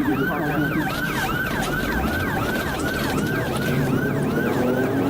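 Police car siren in a fast yelp, rising and falling about two to three times a second, heard from the pursuing cruiser over road and engine noise.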